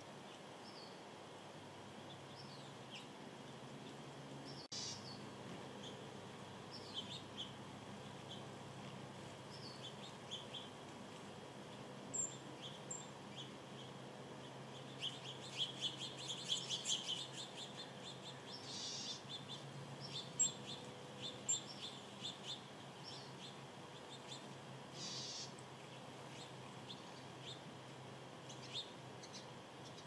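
Small birds chirping: scattered short, high, downward-sliding chirps over a faint steady hiss, bunching into a quick twittering run around the middle.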